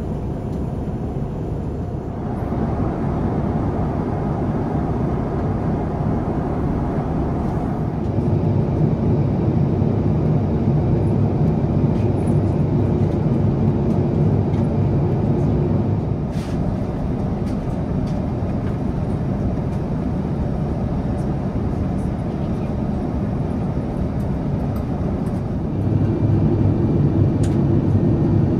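Cabin noise of an Airbus A350-900 in cruise: a steady rumble of engines and airflow heard from inside the cabin. It steps up and down in level several times.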